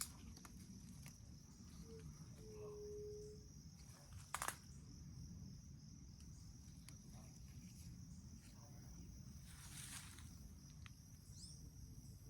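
Faint rural outdoor ambience: a steady high insect drone over a low wind rumble. A soft low hooting note sounds twice about two to three seconds in, and a brief cluster of clicks comes about four and a half seconds in.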